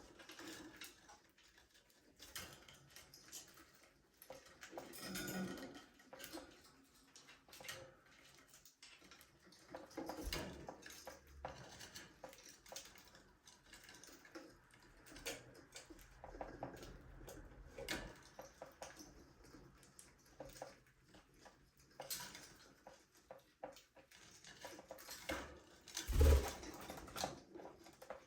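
Budgerigars moving about a small cage: scattered clicks, taps and scratches of beaks and claws on perches, dishes and wire, with a few faint calls. Near the end comes one louder thump.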